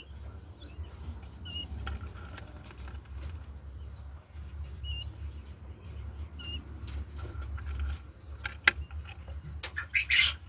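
Quail peeping: four short, high single peeps spaced a second or more apart, over a steady low hum. A few sharp clicks and knocks come near the end.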